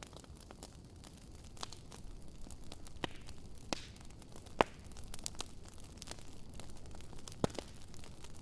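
Wood campfire burning, crackling with irregular sharp pops over a low steady hiss; the loudest pop comes about four and a half seconds in.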